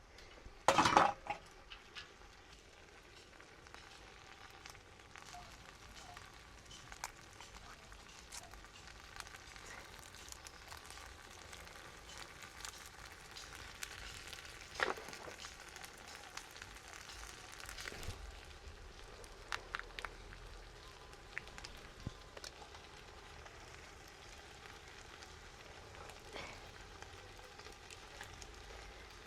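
Food frying and sizzling steadily in a cooking pot, with scattered small crackles and clicks. A brief loud clatter comes about a second in.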